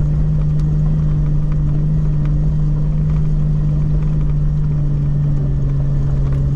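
Jeep LJ engine running at a steady, unchanging speed, a constant low drone.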